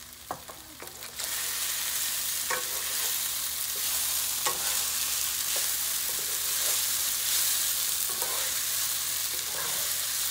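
Soaked sabudana (sago pearls) frying in oil in a non-stick pan as they cook through, stirred with a wooden spatula. A steady sizzle comes up loudly about a second in, with the spatula scraping and knocking against the pan now and then.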